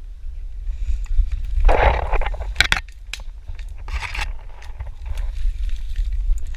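Rustling and scraping of a player moving through brush in an airsoft game, over a steady low rumble on the microphone, with two sharp clicks near the middle.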